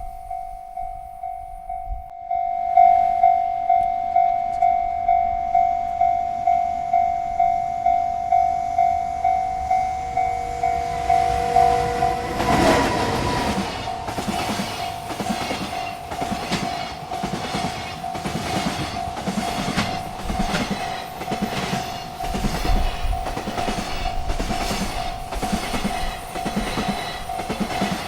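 Railroad crossing bell ringing steadily, about two strokes a second. About halfway through, a freight train reaches the crossing and passes, its wheels clacking rhythmically over the rail joints while the bell keeps ringing.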